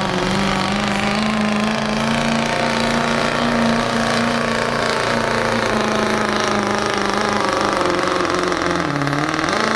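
Diesel pickup truck engine held at high revs under heavy load while pulling a sled, with a hard rattly edge. The pitch stays nearly level and dips briefly near the end.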